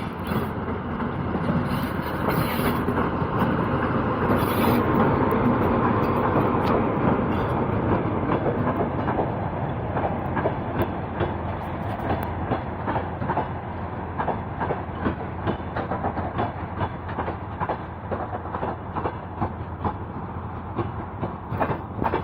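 Passenger train rolling into a station: a loud rumble peaks in the first half as the head of the train passes, then the carriage wheels click steadily over the rail joints.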